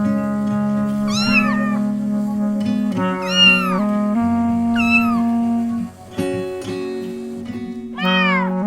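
A cat meowing four times, each meow rising and then falling in pitch, over gentle background music of held notes.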